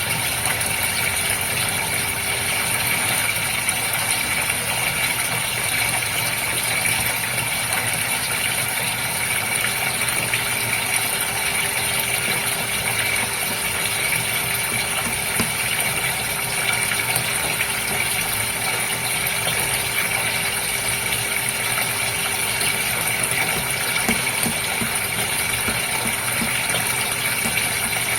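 Steady flowing water in a goldfish tank over the constant hum of a water pump, unchanging throughout.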